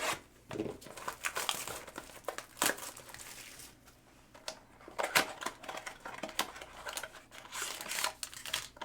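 Plastic wrapping on a trading-card box crinkling and tearing as it is opened, in irregular rustles and crackles.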